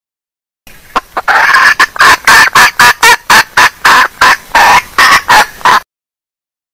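Female junglefowl clucking: a few faint short notes, then a fast run of loud, evenly spaced clucks, about three a second, that stops abruptly near the end.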